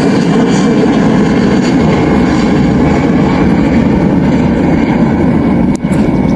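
Airliner engines running loud and steady as the aircraft passes close by, with a brief dip near the end.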